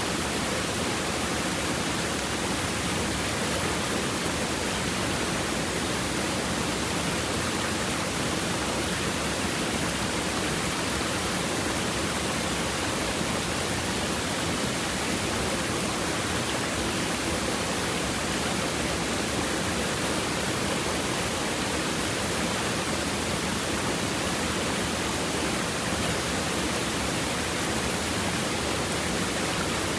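Shallow river water babbling over stones: a steady, even rush of flowing water with no breaks.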